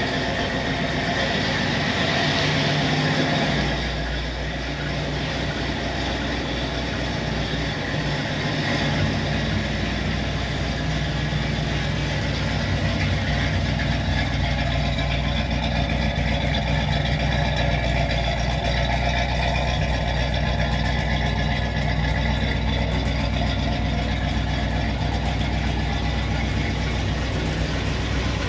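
Classic Chevrolet car engine idling steadily, with a low rumble that deepens a few seconds in.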